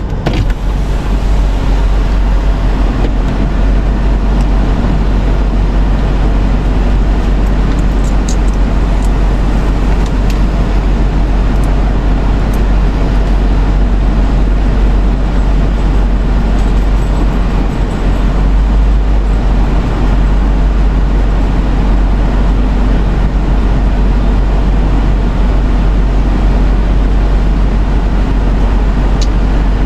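Steady noise inside a car's cabin: a strong, deep rumble under an even hiss, with a few faint ticks.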